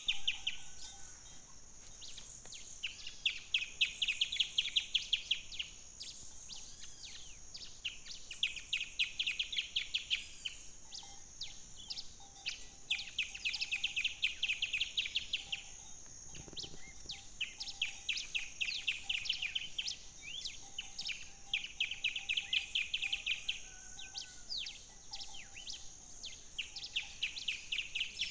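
Several birds singing, with many short chirps and calls over one bird's rapid trill that lasts about two seconds and comes back every four to five seconds.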